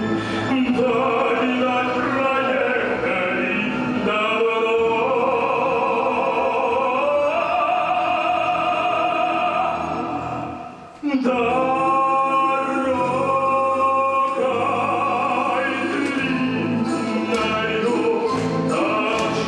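An orchestra playing live with singing over it, in long held notes. The music fades briefly about ten seconds in and comes straight back in on a sharp new entry. Near the end a light percussion tick keeps a regular beat.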